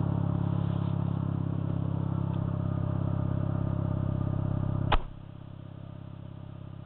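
Mazda RX-7 FD3S's twin-rotor rotary engine idling with a steady, pulsing beat. About five seconds in there is a sharp thump, after which the engine is heard much quieter.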